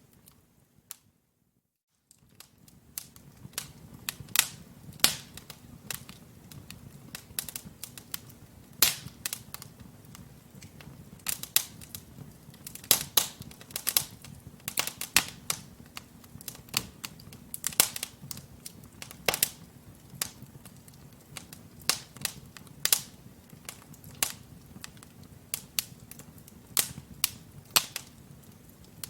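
Wood logs burning in a fireplace: irregular sharp crackles and pops over a low, steady rumble of flame. The sound drops out briefly about half a second in and returns about two seconds in.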